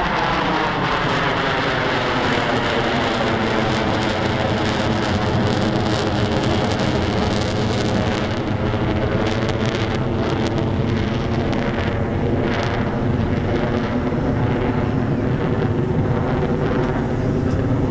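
Jet engine noise from four F-16 fighters flying past in diamond formation: a downward sweep in pitch at the start as they pass, then a steady, loud jet rumble.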